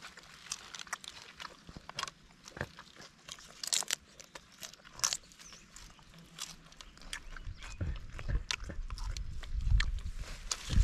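Close, wet chewing with irregular crisp crunches as crispy fried mole crickets wrapped in a leaf are bitten and chewed. A low rumble builds up in the last few seconds.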